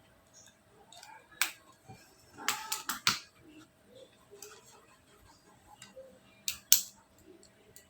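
Sharp taps and clicks of small objects handled at a study desk: one about a second and a half in, a quick run of about four near the middle, and two more near the end.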